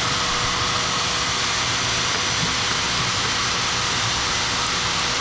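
A motor-driven machine running steadily: a constant rushing noise with a faint steady hum.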